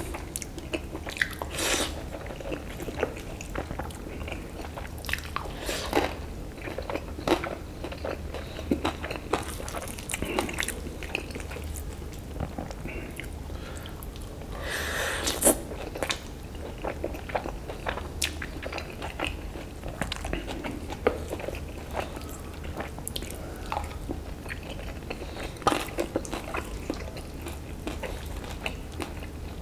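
A person chewing and biting a mouthful of instant noodles with fried tofu and egg in peanut sauce, with many small wet mouth clicks and smacks. A louder stretch comes about halfway through, over a low steady hum.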